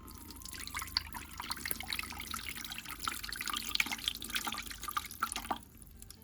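Water splashing and trickling, a dense patter that stops about five and a half seconds in.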